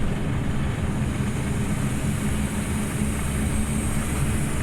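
Scania OmniLink city bus engine running, heard from inside the bus as a steady low drone.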